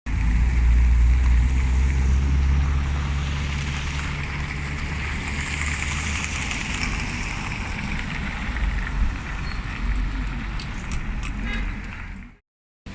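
Car driving, with a steady low engine and road rumble and tyre hiss. The low hum is strongest over the first few seconds, and a few faint clicks come near the end.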